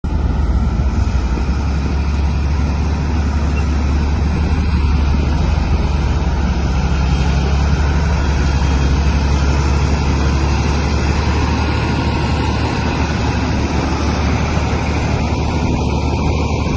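Heavy diesel machinery engine running steadily, a constant deep rumble with no change in pace.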